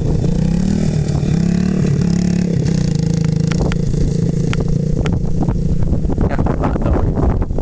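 1975 Honda TL125 trials motorcycle's single-cylinder four-stroke engine revving up about a second in, then pulling steadily and growing fainter as the bike moves off. Wind buffets the microphone near the end.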